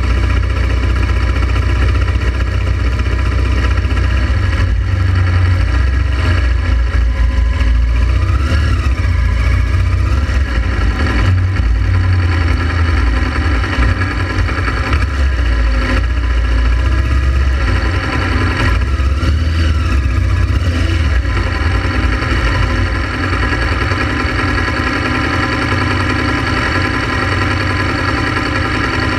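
Honda Transalp XL700V motorcycle's V-twin engine running steadily, with a strong low rumble. Its pitch rises and falls a little in the middle.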